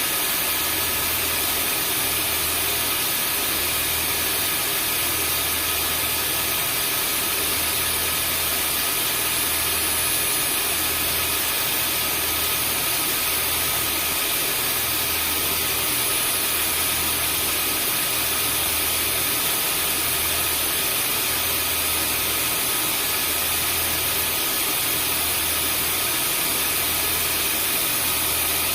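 Vacuum cleaner running steadily as white noise: a dense whooshing rush with a fixed motor whine, over a low hum that swells and fades about every couple of seconds.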